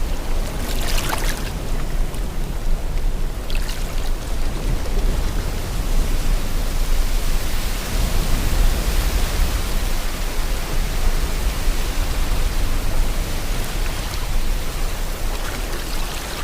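Sea water washing with wind, a steady rushing noise with a heavy low rumble, with brief hissing splashes about a second in and again near four seconds.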